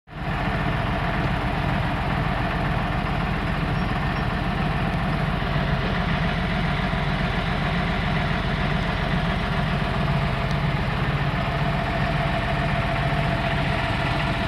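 Engine of the towing vehicle running steadily at idle.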